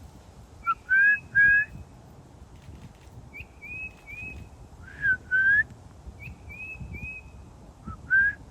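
Tufted titmouse song: clear whistled notes in sets of three, alternating about every three to four seconds with louder pairs of rising, lower whistles.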